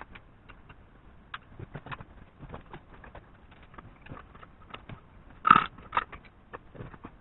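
Scattered clicks and clinks of metal engine parts and tools being handled during engine assembly. The loudest is a sharp knock about five and a half seconds in, with another just after.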